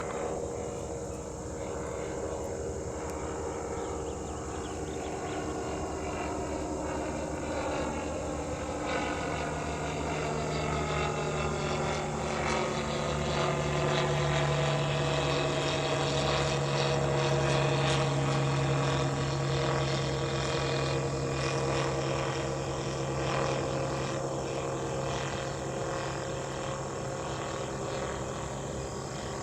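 An aircraft flying past: its engine sound builds to a peak around the middle and then eases, with its pitch slowly falling as it goes by.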